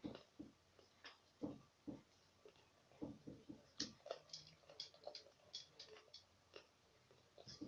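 Faint mouth noises of someone sucking on sour hard candies: irregular wet clicks and lip smacks, several a second, busiest in the middle.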